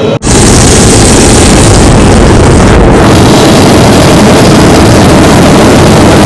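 Homemade motorjet running hard: a loud, steady rushing engine noise with no breaks. It cuts in suddenly a moment in, after a brief dropout.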